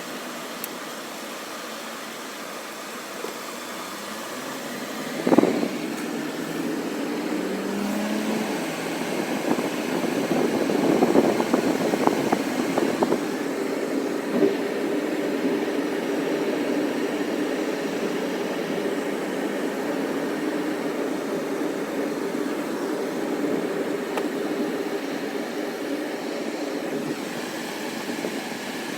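Sandstorm wind rushing steadily with a vehicle engine running underneath. A sharp knock about five seconds in, and the noise grows louder from about ten seconds.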